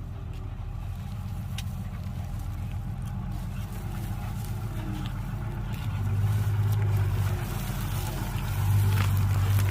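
Heavy machine's diesel engine running with a steady low drone, getting louder twice: about six seconds in and again near the end.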